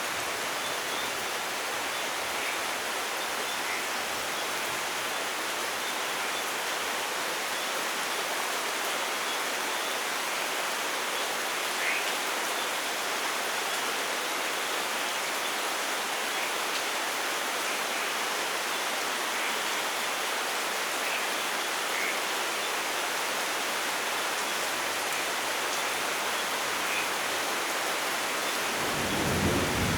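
Steady, even rain with a few louder drops ticking through it. A low rumble of thunder starts to build in the last second.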